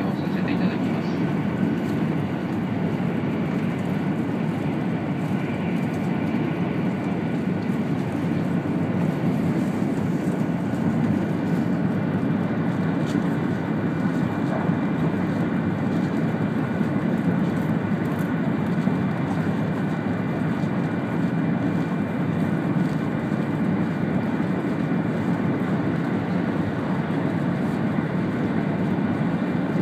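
Steady cabin noise of a 200 series Shinkansen train running at speed: a dense low rumble from the wheels and running gear, with a faint high steady whine over it, heard from inside the passenger car.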